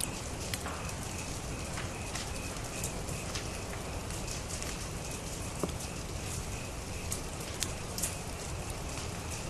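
Wildfire burning: a steady rush with scattered sharp crackles and pops.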